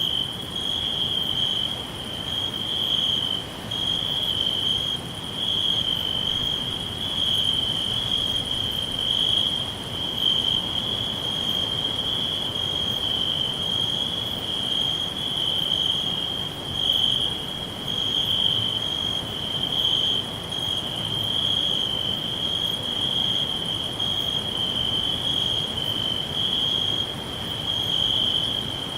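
Crickets chirping in a continuous high trill that pulses gently in loudness, with a fainter, higher chirping layered above it.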